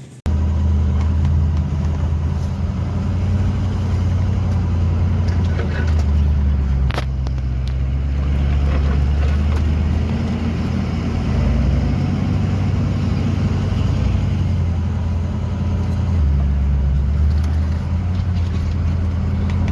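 Off-road car's engine running under load while driving, a loud steady low drone that steps up and down in pitch a few times.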